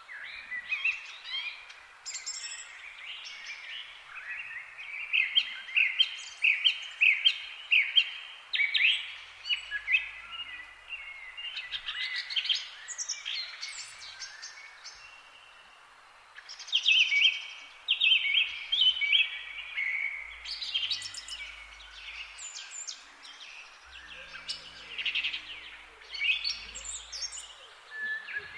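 Several songbirds chirping and trilling in a forest chorus, with quick repeated notes and overlapping songs over a faint steady hiss.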